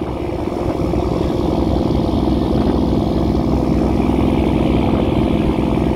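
Fishing boat's engine running steadily, a low hum with several steady tones, getting a little louder about a second in.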